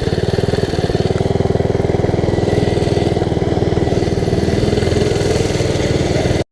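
Minibike's small single-cylinder engine running steadily at riding speed, with a hiss of wind over it; it cuts off suddenly near the end.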